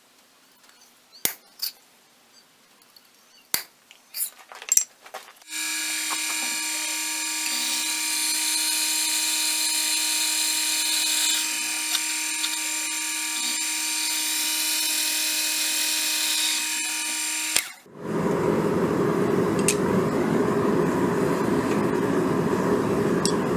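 A few light knocks, then a power drill running steadily at one pitch for about twelve seconds, boring pin holes through the annealed spring-steel knife tang. It cuts off suddenly and is followed by a louder, steady rushing noise.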